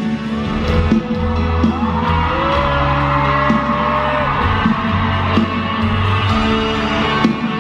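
Live band music with sustained notes and a steady low beat, with an audience screaming and cheering over it.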